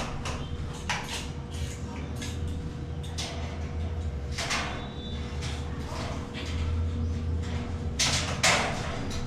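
Metal ceiling framing being worked: scattered short scrapes and knocks, the loudest about eight seconds in, over a steady low hum.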